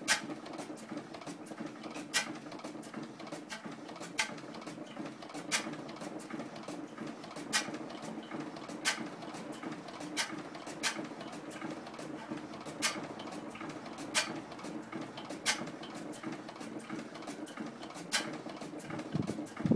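1912 Crossley G112 stationary gas engine running, a sharp crack every one to two seconds at uneven spacing over a steady hum, with fainter ticks between.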